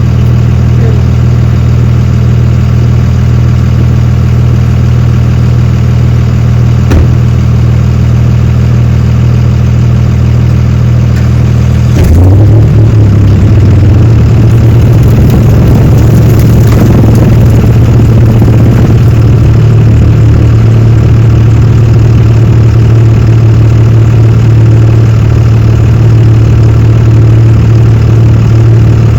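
A vehicle engine running at a steady idle; about twelve seconds in it speeds up to a louder, higher steady run and holds there.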